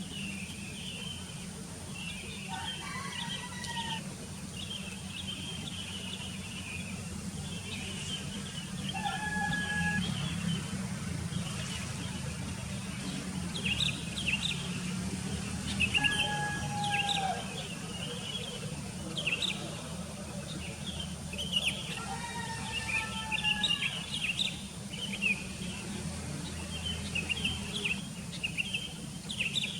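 Songbirds chirping and calling: a busy chatter of high chirps, broken every few seconds by short, clear whistled notes that slide slightly down, over a steady low hum.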